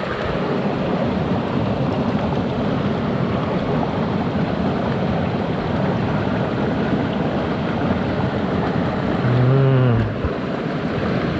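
Mountain headwater stream rushing steadily over rocks. About nine and a half seconds in there is a short, low hum from a person.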